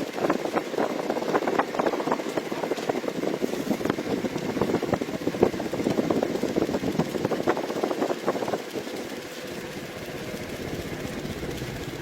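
A homemade helicopter's engine running with a dense, fast rattling clatter. It eases to a quieter run about nine seconds in.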